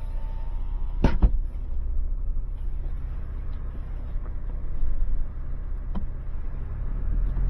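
Steady low rumble of an idling vehicle engine, with two sharp knocks about a second in and a few fainter clicks later.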